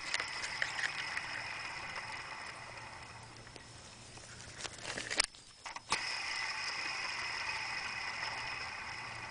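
Worn idler (deflection) pulley on a BMW E46 330i engine, spun freely by hand with the belt off, its bearing whirring dry and rough as it coasts down. A few clicks about five seconds in, and it is spun up again and coasts down once more. The dry, loose sound is the sign of worn-out pulley bearings.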